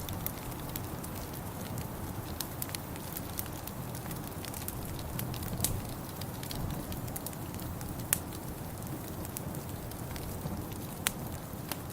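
Wood fire crackling: scattered sharp pops and snaps over a steady low rumble, with a louder pop about 8 seconds in and another near the end.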